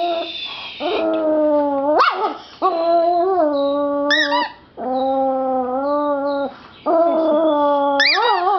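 Papillon dog howling: about four long drawn-out calls in a row, each wavering and gliding in pitch, one rising sharply at its end about two seconds in.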